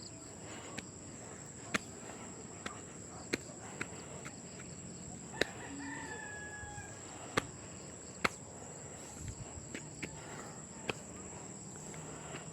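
A rooster crowing once in the distance, about six seconds in, over a steady high-pitched insect drone. Sharp, irregular clicks of footsteps in slippers on the trail sound throughout.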